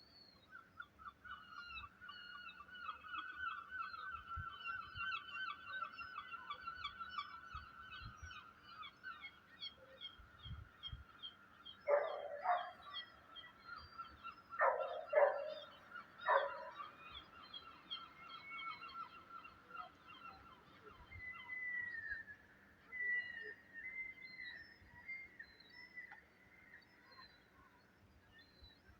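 Animal calls: a long rapid trill for the first several seconds, then three loud calls about twelve, fifteen and sixteen seconds in, with faint high chirping throughout.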